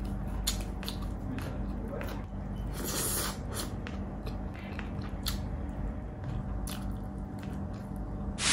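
Close-miked eating sounds: biting and chewing onion rings and pork, with sharp crunches and wet mouth smacks scattered throughout, over a faint steady hum.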